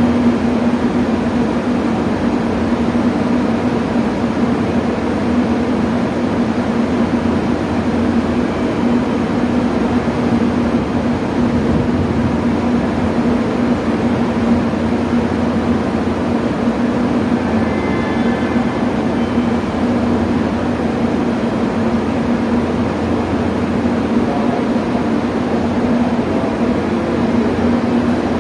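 JR Kyushu 883 series electric train standing at the platform, its onboard equipment giving a steady, even hum.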